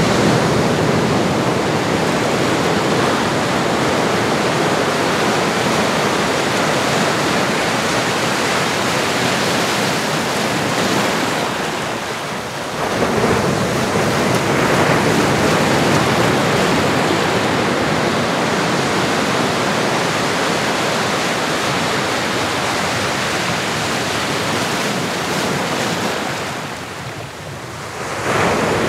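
Ocean surf: a steady rush of waves washing onto a shore. It eases off briefly twice, about twelve seconds in and again near the end, then swells back up.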